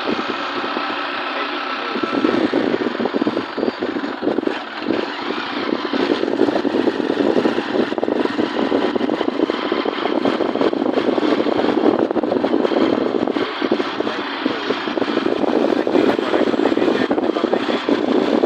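A vehicle travelling on the road: steady engine and road noise, growing louder about two seconds in.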